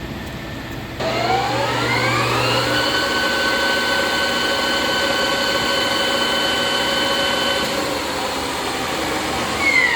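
JET GH-1440ZX geared-head lathe, with its 7½ hp three-phase motor, starting up about a second in: a gear whine rises in pitch over about two seconds as the spindle comes up to speed, then runs steady, easing slightly near the end.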